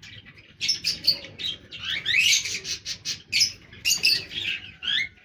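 Pet birds calling in a quick series of loud, harsh chirps, starting just under a second in, some sliding up or down in pitch.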